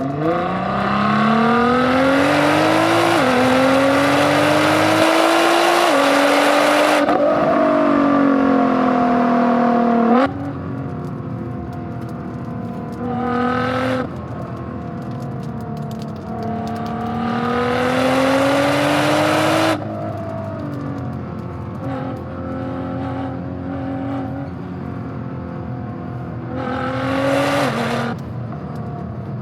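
Nissan GT-R R35's twin-turbo V6 accelerating hard, rising in pitch and dropping twice at quick upshifts, then easing off. Further shorter pulls follow, with the engine sound changing abruptly several times.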